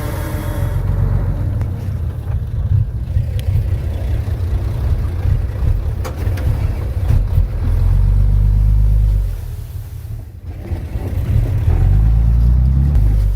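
Heavy diesel earthmoving machinery running under load, a deep low rumble that swells and eases, loudest in two steady stretches in the second half.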